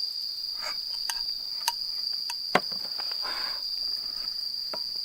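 Night insects, likely crickets, chirring in one unbroken high-pitched tone. A few light clicks sound over it, with one sharp knock about two and a half seconds in.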